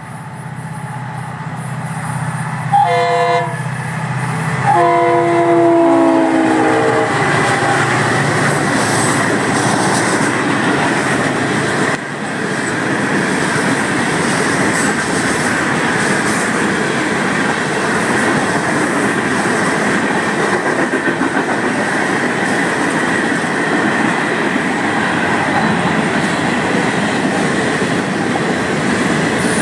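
Diesel freight locomotives sound their multi-chime air horn in two blasts, a short one then a longer one, as they come up. Then the freight train passes close by, its cars rumbling and clacking over the rails in a steady loud roll.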